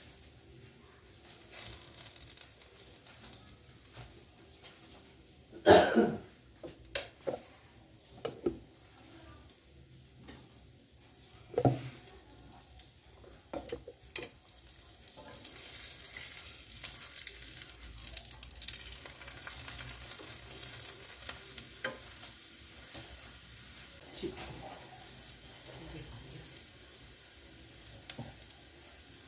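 Aloo paratha frying on a flat griddle over a gas burner, with several knocks of kitchen utensils in the first half, the loudest about six seconds in. From about halfway, a steady sizzle rises as fat is spread over the paratha with a spoon.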